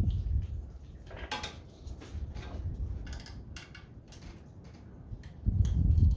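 Small metallic clicks and light clinks as a throttle cable is worked through the tractor's parts by hand, over low rumbling handling noise that swells near the end.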